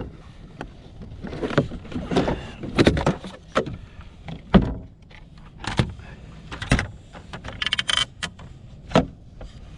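Gear being handled on a small fishing boat: a dozen or so irregular knocks and clunks, with a short quick rattle about eight seconds in, as a measuring tape is fetched to measure a caught fish.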